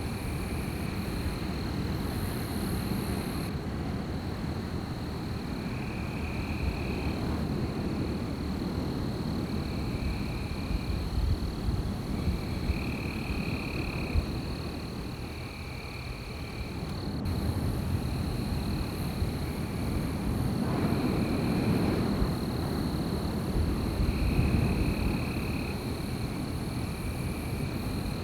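Heavy wind blowing through a forest, a low rushing that swells and grows louder in the second half. Over it runs a steady high-pitched tone, with short animal calls about a second long repeating every couple of seconds.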